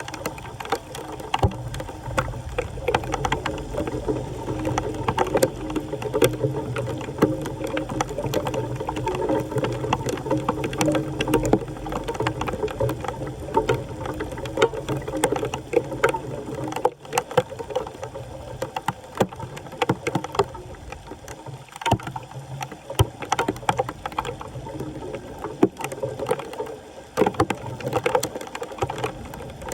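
Floodwater swirling and gurgling into a street drain, a steady rushing with frequent sharp clicks and knocks throughout.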